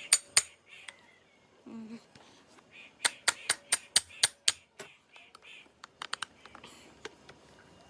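A series of sharp clicks or taps, like small hard objects knocking together: two at the very start, a quick run of about eight around three seconds in, and a few more a little later.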